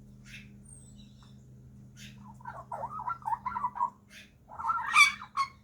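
Young Australian magpie vocalising: a warbling, chattering run of notes starts a little past two seconds in, then a louder, harsher call comes near the end, with short high chirps scattered between.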